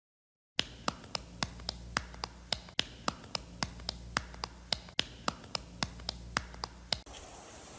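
A quick, regular run of sharp taps or clicks, about four a second, over a low steady hum. Near the end they stop and give way to a steady hiss.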